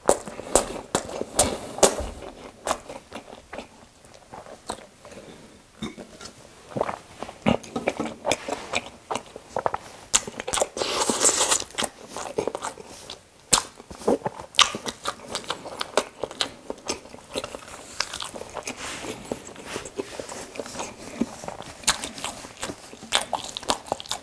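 Close-miked chewing of a toasted bread sandwich: many short crunches, clicks and wet mouth sounds. About halfway through comes a dry papery rustle as a napkin is rubbed between the hands.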